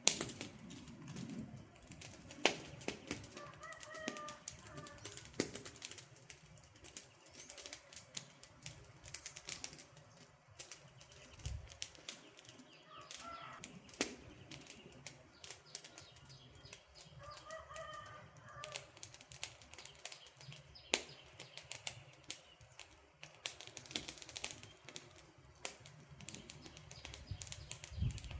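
Wood campfire crackling, with irregular sharp pops and snaps over a low hiss. A faint bird calls three times in the background.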